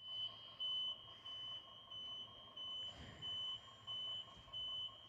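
Fire station alarm sounding for a turnout: a high electronic beep repeating evenly about eight times, roughly every two-thirds of a second, over a faint steady lower tone. A single thud about three seconds in.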